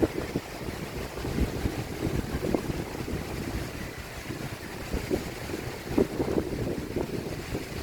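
Strong sea wind buffeting the microphone in an irregular low rumble, with surf washing beneath it.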